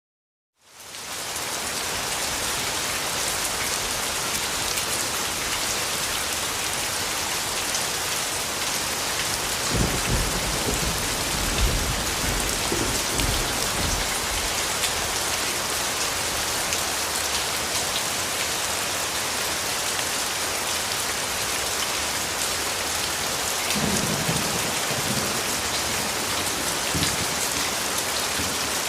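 Steady rain falling, fading in from silence about a second in, with low rolls of thunder around the middle and again near the end.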